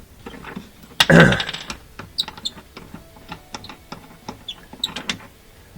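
Small scattered clicks and taps of the dishwasher heating element's mounting nuts being spun off by hand, with one louder knock about a second in.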